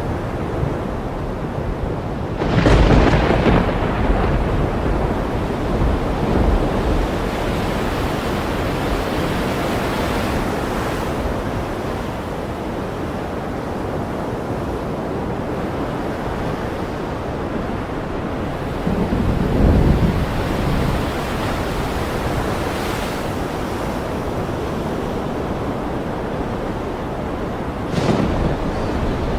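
Thunderstorm over ocean surf: a steady wash of waves and storm noise. A loud thunderclap about two and a half seconds in rumbles on for a couple of seconds, a low roll of thunder follows near the middle, and a sharper crack comes near the end.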